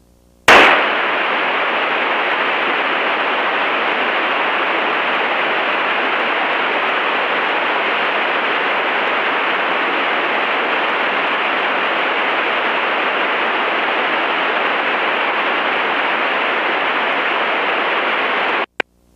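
Loud, steady radio static hiss in the headset audio. It starts suddenly about half a second in and cuts off abruptly near the end.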